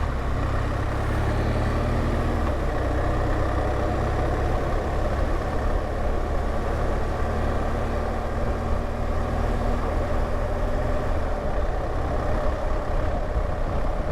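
BMW R1200GSA's boxer-twin engine running steadily, with a continuous rush of wind and road noise over it.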